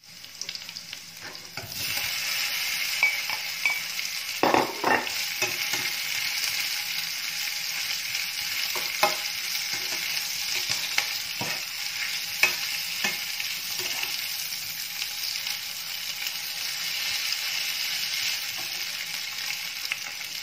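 Sliced potatoes frying with onion and smoked pork fat in a nonstick pan: a steady sizzle that rises to full about two seconds in, with occasional clatters and scrapes against the pan.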